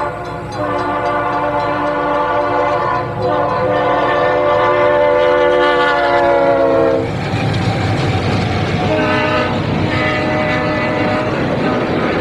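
Train horn sounding long chord blasts for a grade crossing, the pitch sagging as the train passes about seven seconds in. The rumble of the passing train follows, with a further, higher horn blast.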